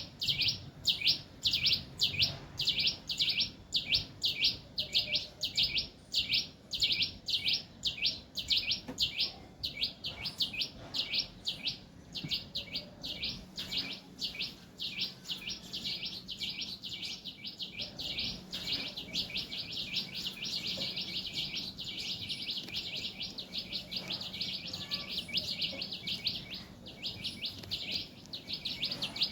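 A bird chirping steadily, short high calls repeated about three times a second, growing denser in the second half.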